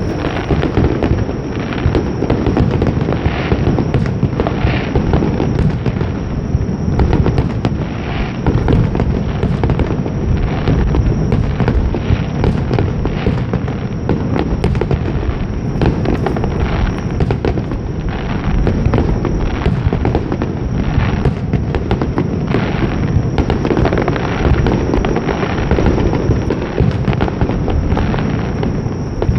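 Aerial fireworks display: shells bursting in quick succession, their booms overlapping with no real pause.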